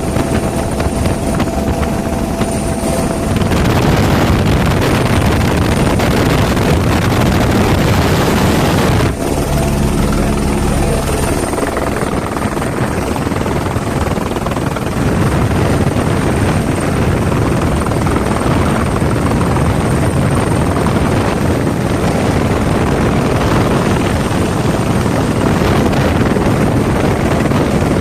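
Helicopter running with a steady, loud rotor and engine noise that grows louder a few seconds in.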